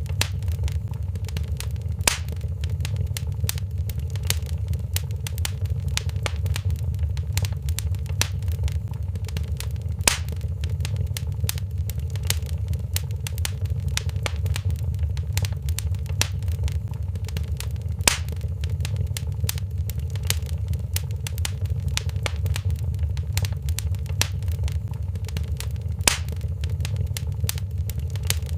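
Wood fire in a fireplace crackling over a steady low rumble, with frequent small snaps and a louder pop about every eight seconds.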